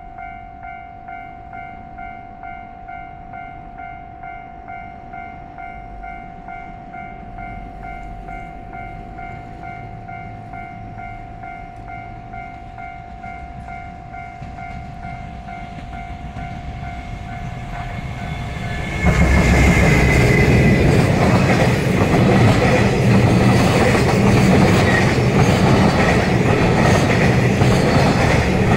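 Level-crossing warning bell ringing in steady repeated strokes as a JR Freight EF210 electric locomotive approaches. About nineteen seconds in, the locomotive and its container flatcars reach the crossing and pass close by. Their loud rumble and the clickety-clack of the wheels over the rail joints drown out the bell.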